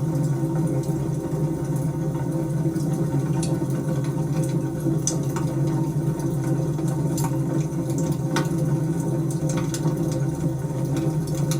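Wood fire crackling, with scattered sharp pops and snaps at irregular moments over a steady low roar of the flames.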